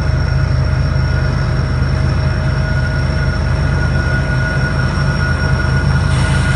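Loaded coal train rolling slowly past on an uphill grade: a steady low rumble of the cars with several steady thin ringing tones above it, like wheel squeal.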